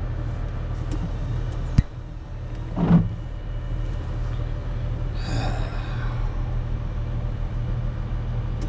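Rubber-tire wheel loader's diesel engine running steadily, heard from inside the cab. A sharp click comes about two seconds in and a short low thump about a second later.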